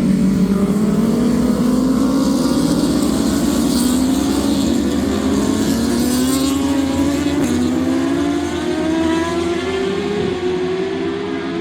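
Superbike racing motorcycle engines at high revs, their pitch climbing slowly with a brief drop about seven and a half seconds in, then fading a little near the end.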